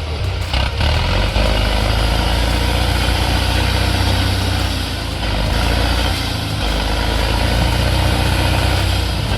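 Heavy vehicle engine running steadily: a constant low hum with noise over it, dipping briefly about two-thirds of the way through.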